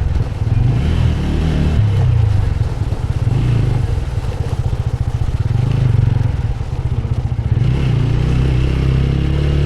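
Motorcycle engine running steadily while riding, with a dense low drone and a noisy rush over it.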